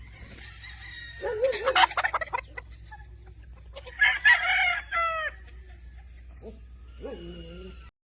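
Gamefowl roosters crowing, with two loud crows about one and four seconds in and a softer call near the end, over clucking. The sound cuts off suddenly just before the end.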